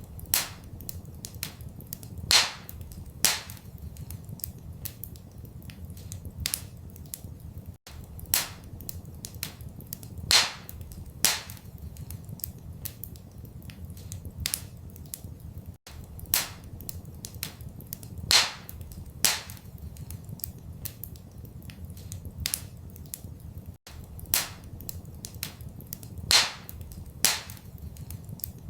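Wood fire crackling in a fireplace: irregular sharp pops and snaps, a few louder ones, over a steady low rumble. The same short recording loops about every eight seconds, with a brief dropout at each join.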